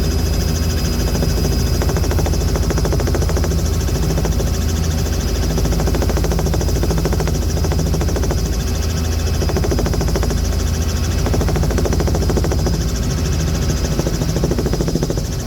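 Aircraft engine running steadily in flight, a loud constant drone with a fast, even pulsing from the engine and blades.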